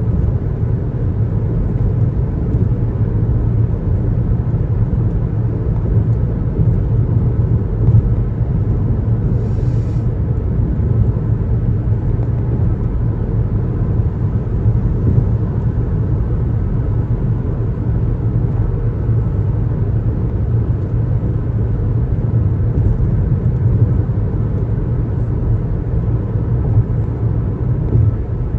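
Steady low road noise of a car driving on the highway: a continuous tyre and engine rumble, with a brief hiss just under ten seconds in.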